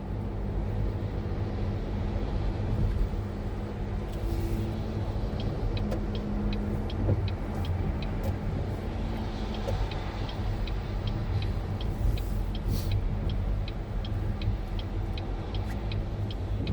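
Steady engine and road rumble of a car driving, heard from inside. From about five seconds in until near the end, a light tick repeats evenly, about two or three times a second.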